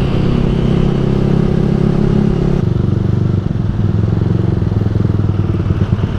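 Yamaha R15 v3's 155 cc single-cylinder engine through a Ronin Musashi aftermarket exhaust, running steadily under way. About two and a half seconds in, its note drops to a lower, more uneven pulsing as the revs come down.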